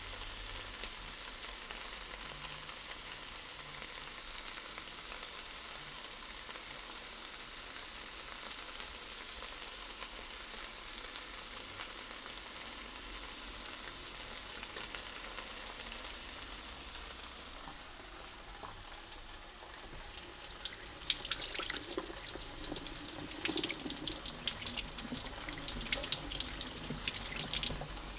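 Food sizzling in a frying pan, a steady hiss. About twenty seconds in, a louder, irregular crackling noise takes over.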